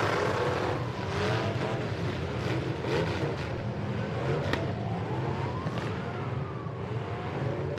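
Several demolition derby truck engines running and revving at once, their pitch rising and falling, with a sharp click about four and a half seconds in.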